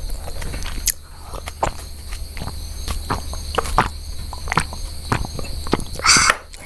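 Close-miked chewing and mouth sounds: soft, irregular wet clicks as food is chewed with the mouth closed, with sips from a glass partway through. About six seconds in comes a short, louder breathy sound.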